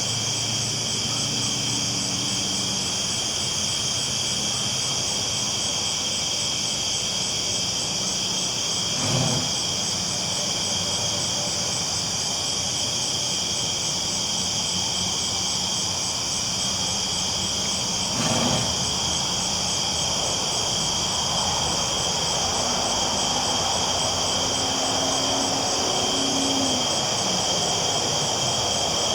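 Train rolling along the tracks with a steady low rumble and two short knocks about nine seconds apart, under a steady high chorus of crickets.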